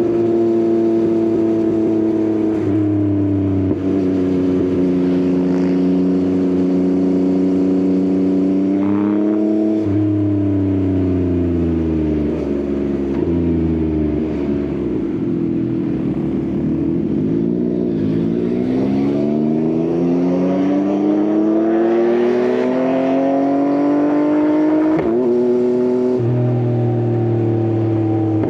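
Yamaha XSR900 inline-three engine through an Akrapovič exhaust, heard from the rider's seat. It cruises steadily, then backs off and the note sinks as the bike slows, before it pulls hard again with a rising note, shifts up near the end and settles into a steady cruise.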